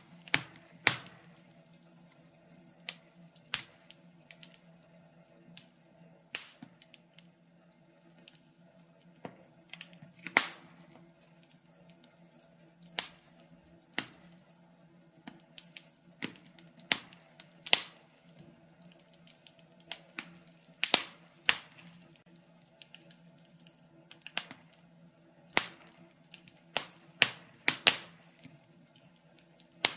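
Fireplace fire crackling, with irregular sharp pops and snaps, a few of them much louder, over a faint steady low hum.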